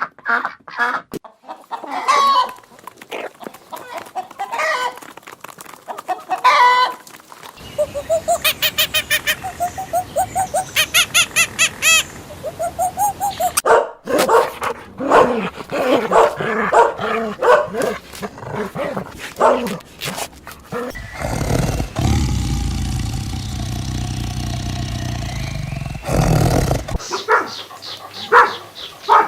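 A run of different animal calls, changing abruptly every few seconds, with chickens clucking and a dog barking among them.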